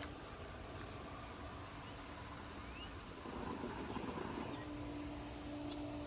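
Steady low motor hum over a wash of pool water noise, with no sudden events.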